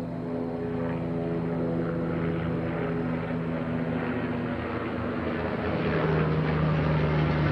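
Helicopter flying overhead, a steady engine and rotor drone that grows louder near the end.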